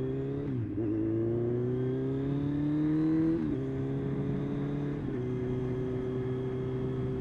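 Motorcycle engine accelerating, its pitch climbing steadily between upshifts, with gear changes about half a second in and about three and a half seconds in and a smaller one near five seconds, then holding a steady cruise.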